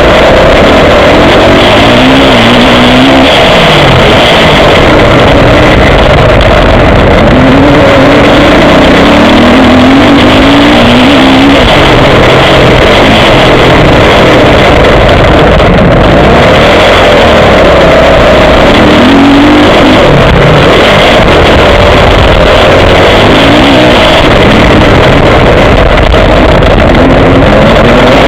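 Motocross bike engine heard from onboard the bike, revving up and falling back over and over as it is ridden through the gears, very loud and at a constant, near-saturated level.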